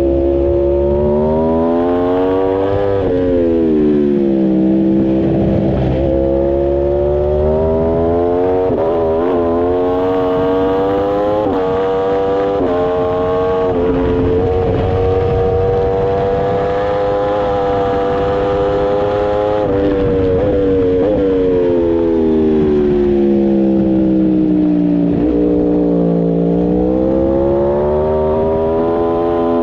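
Superbike engine under hard track riding, its pitch climbing under acceleration and dropping back sharply on braking and downshifts several times, with a long climb through the middle and a dip near the end, over wind and road noise.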